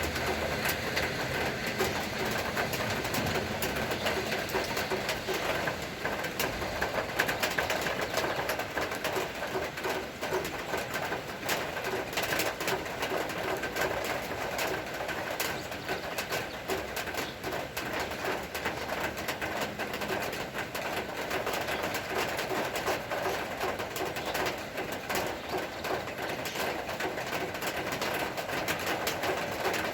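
Steady rain falling, with a dense patter of drops hitting surfaces, and a bird calling.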